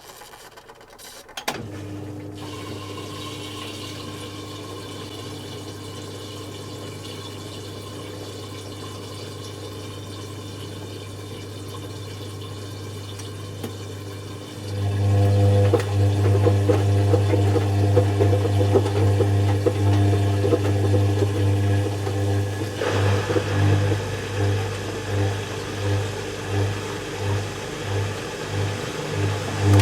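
Zanussi FC1000 compact washing machine running with water draining through it: a steady low hum starts about a second and a half in. It turns much louder about halfway through, then pulses on and off in the last several seconds.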